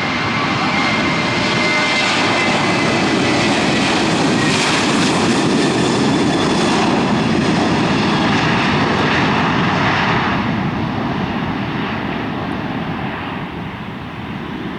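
Boeing 737-800's twin CFM56 turbofans at takeoff power, a loud steady jet roar with a thin high whine in the first seconds, easing off near the end as the jet climbs away.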